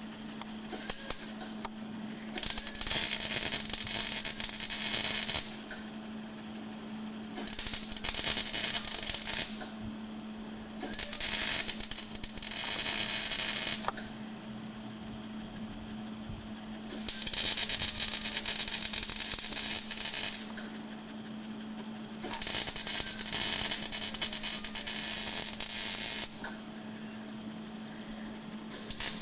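Welding on a car's oil pan: five separate runs of the welding arc, each two to four seconds long with short pauses between, over a steady hum.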